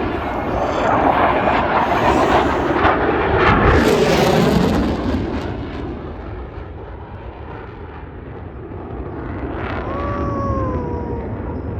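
F-16 Fighting Falcon jet making a loud pass: its roar builds to a peak about four seconds in, fades, then swells again toward the end. A short falling whistle sounds about ten seconds in.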